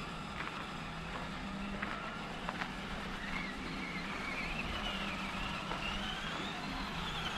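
Electric RC scale crawler truck driving, its motor and gears whining in a high tone that rises and falls with the throttle from about three seconds in, over a steady low hum and a few light clicks.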